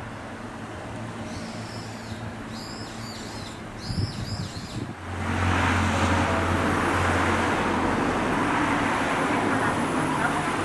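Small birds chirping a few times over a quiet steady background. About five seconds in, this gives way abruptly to a louder, steady rush of train noise with a low hum: a Nose Electric Railway 1700 series train running in.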